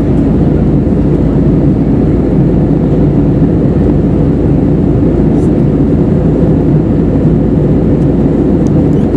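Steady cabin noise inside an Airbus A320neo in flight: a constant low rush of airflow and the drone of its CFM LEAP-1A engines, with a faint steady hum.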